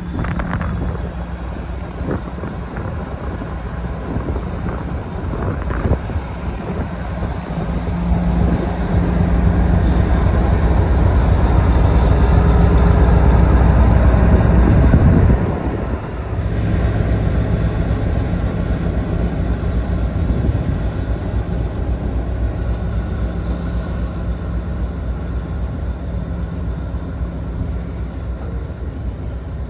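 Diesel locomotive engine running under load with a steady low drone, growing louder to a peak halfway through, then dropping suddenly and carrying on steadily, fading slightly towards the end.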